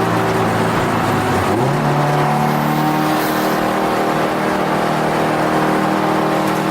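Turbocharged Subaru WRX STi flat-four engine running hard under track driving, heard from inside the cabin. About one and a half seconds in its pitch dips briefly, then settles higher and holds steady.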